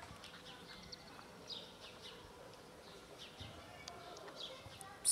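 Faint bird chirping: short, high, falling notes repeated every half second or so.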